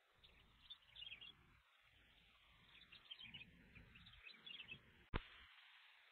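Faint chirps of small birds in short clusters over a low wind rumble, with a single sharp click about five seconds in.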